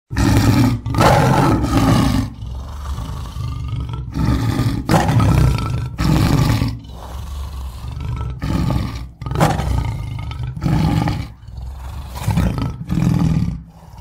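Tiger giving a run of loud, harsh roars and growls, a dozen or so in quick succession, each under a second long.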